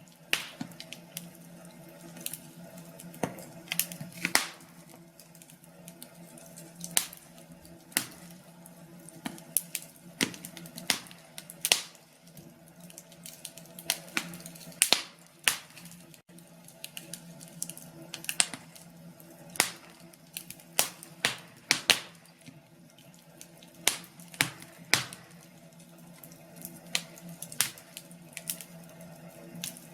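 Wood fire crackling in a fireplace: irregular sharp pops and snaps, sometimes several in quick succession, over a low steady hum.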